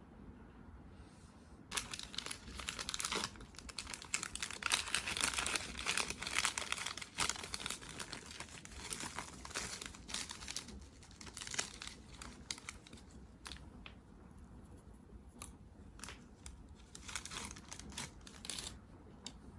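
Crinkling and tearing of packaging being handled, dense for several seconds after a sudden start, then thinning to scattered crackles and clicks with one more short burst near the end.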